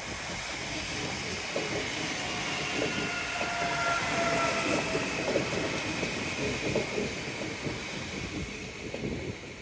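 DART electric commuter train rolling past and away on the curve, its wheels clattering over the rails, with a whine of a few steady tones in the middle. The sound fades as the train draws off near the end.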